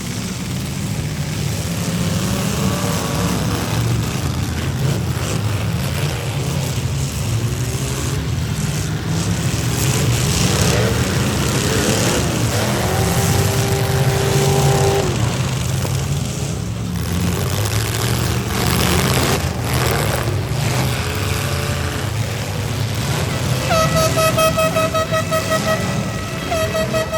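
V8 demolition derby cars running with a steady engine rumble, with scattered bangs as they collide. A horn sounds briefly about halfway through, and a horn blows in rapid pulses near the end.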